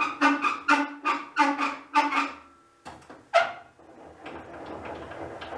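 Hen cackling: a fast run of loud clucks, about four a second, then two sharper calls, followed by a soft rustling.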